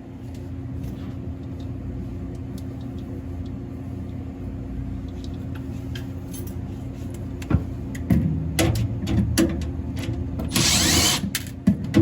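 Steady machinery hum with scattered knocks and clatter of handling in the second half and a brief loud rushing noise near the end.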